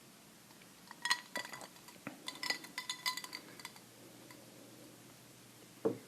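A quick run of light clinking taps on a hard object that rings with a bright tone, about a dozen in under three seconds, followed near the end by a single duller thump.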